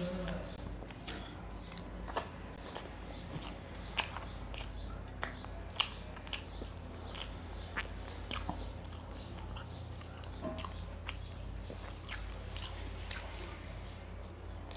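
Close-miked chewing and biting of a curried boiled egg and rice with mutton liver curry eaten by hand. Sharp wet mouth smacks and clicks come at irregular intervals over a steady low hum.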